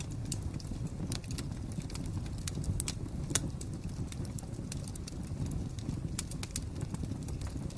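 Wood fire crackling: irregular sharp pops and snaps over a steady low rumble of flames, with one louder pop about three and a half seconds in.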